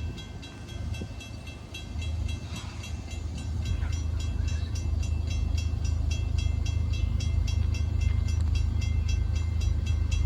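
CSX freight train's diesel locomotives rumbling, growing louder as the train approaches and then holding steady, while grade-crossing bells ring rapidly and evenly.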